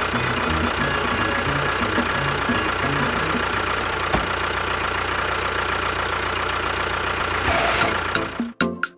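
An engine idling with an uneven knocking beat, cutting off abruptly about eight and a half seconds in, followed by a few sharp clicks.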